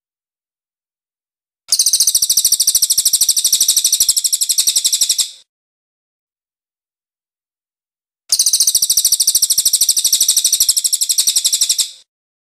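Crested jay (cililin) giving two long, rapid, high-pitched rattling trills of evenly spaced clicks, each about three and a half seconds long. The trills are separated by a silent pause of about three seconds.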